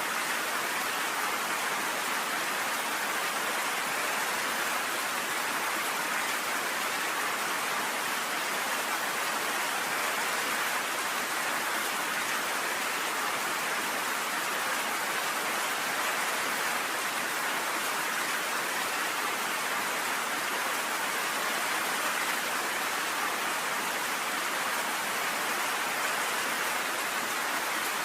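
Steady rain pelting down on a cabin porch: an even, unbroken hiss with no change in strength.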